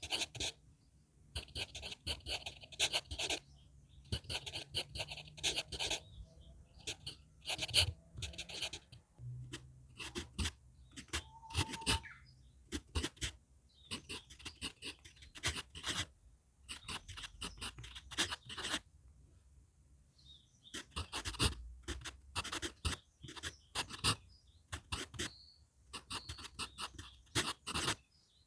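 HB pencil writing on paper manuscript sheets: runs of scratchy strokes lasting a second or two, separated by short pauses.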